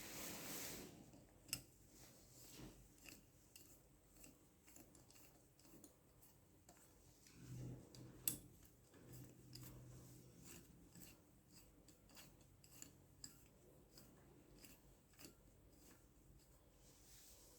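Faint, irregular clicks and light metal taps of hand tools tightening the securing bolts of a motorcycle timing chain tensioner, with a few sharper clicks scattered through.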